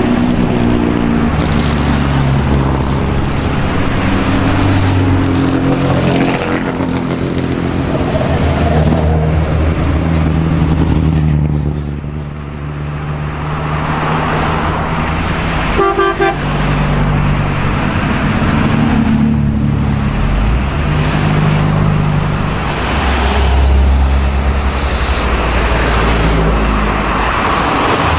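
Vintage race car engines running and passing by in a parade, their pitch rising and falling as cars go by. A brief car horn toot sounds about halfway through.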